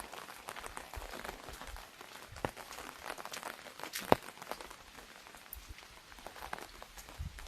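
Rain falling on an umbrella: a steady hiss of rain with irregular drops tapping on the canopy, and one sharper, louder tap about four seconds in.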